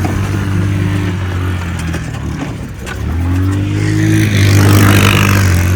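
Motorbike engine running steadily, then revving up with rising pitch from about three seconds in.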